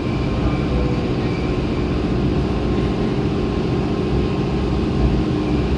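Train running: a steady low rumble with a faint, even hum above it.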